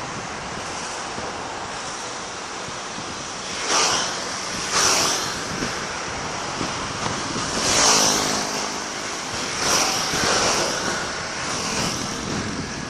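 Fireworks going off outdoors: five noisy bursts, each about half a second to a second long, over a steady background rush.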